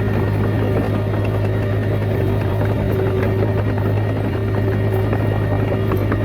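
Komatsu D21A bulldozer's diesel engine running steadily under load with a deep, even hum, with light scattered clanks from the machine.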